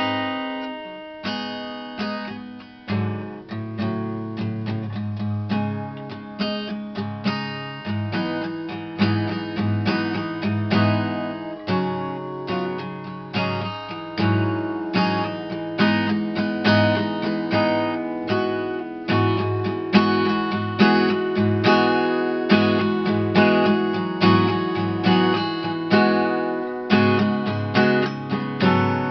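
Acoustic guitar playing an instrumental passage, chords strummed in a steady rhythm with plucked notes ringing between the strokes.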